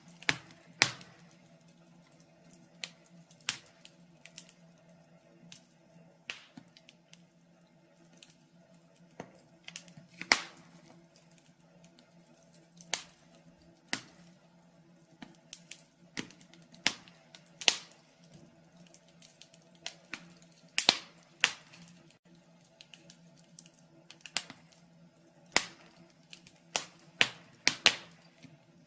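Wood fire in a fireplace crackling, with sharp irregular pops and snaps, more of them close together near the end, over a faint steady hum.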